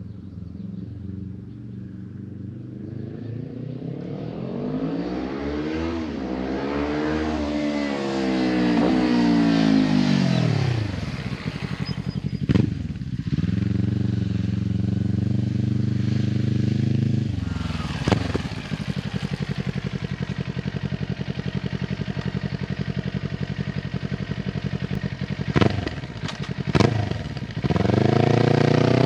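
Kawasaki Ninja 400 parallel-twin with an Akrapovic carbon slip-on exhaust accelerating through the gears on a flyby, its pitch rising for several seconds then dropping sharply about ten seconds in as it passes. It then runs steadily at lower pitch with a few sharp clicks, and starts rising again near the end.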